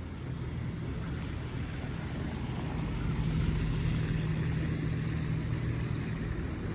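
A motor vehicle's engine running: a steady low hum over a wide hiss that grows a little louder around the middle.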